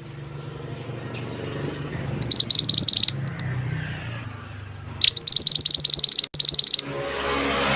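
Small minivet (burung mantenan) singing: two bursts of rapid, high-pitched chirps, each a quick run of about a dozen short notes, the second longer with a brief break near its end. A steady low hum runs underneath, and a rushing noise swells up near the end.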